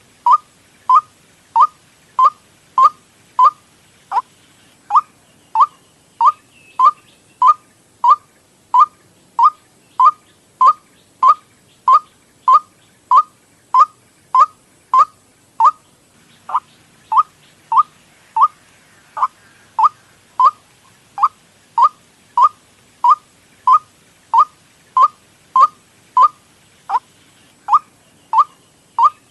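White-breasted waterhen (ruak-ruak) call played as a bird lure: a short note falling in pitch, repeated evenly about one and a half times a second.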